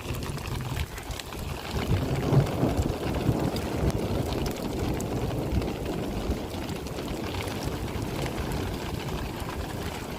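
Storm wind rushing and buffeting the microphone, a low rumbling noise that builds about two seconds in and then holds steady.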